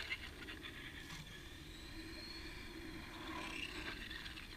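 Radio-controlled car driving out onto the street, its electric motor giving a faint whine that rises and then falls over a couple of seconds. A couple of sharp clicks come right at the start.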